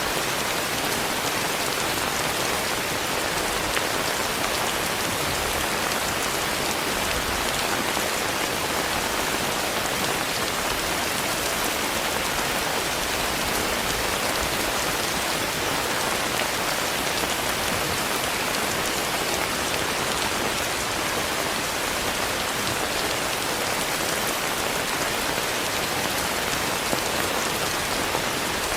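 Steady rain falling, a dense even hiss with scattered drop ticks, unchanging throughout.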